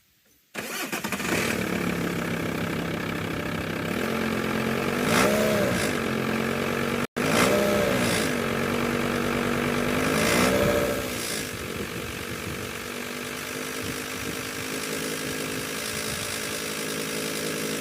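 VW T4's 2.5 TDI five-cylinder diesel starting about half a second in and idling, then revved briefly three times and settling back to idle. It is being run to bring out a vibrating noise from the diesel pump and timing belt area that shows up around 1200 revs.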